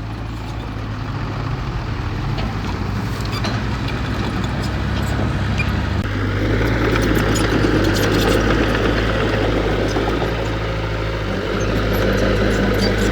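Diesel engine of heavy earthmoving equipment running steadily. About six seconds in it gets louder and works harder, with scattered light clicks and knocks over it.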